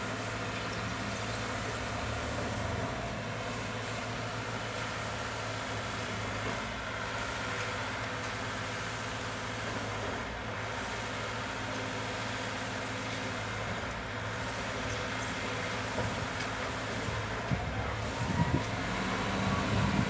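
A John Deere 5310 tractor's three-cylinder diesel engine running at a steady speed. Over the last few seconds it gets louder, with a few knocks.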